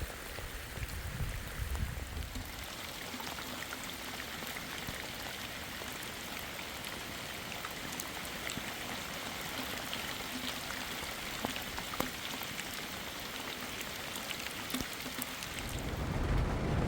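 Steady heavy rain falling, an even hiss with scattered drop ticks. A low rumble sits under it in the first couple of seconds and swells again near the end.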